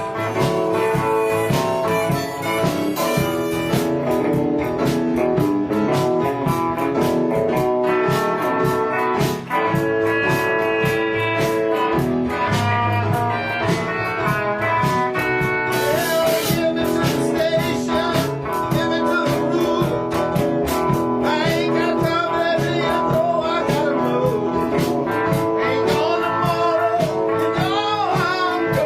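A blues band playing, with guitar over a steady beat; in the last several seconds a wavering lead line, either a voice or harmonica, comes in.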